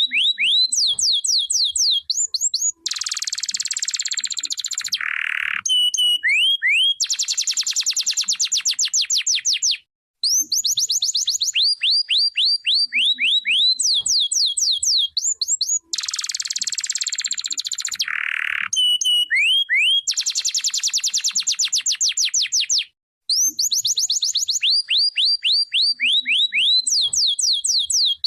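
Canary singing: rapid trills of falling chirps alternating with harsh, buzzy rattling phrases, with the same sequence of song coming round again about every 13 seconds.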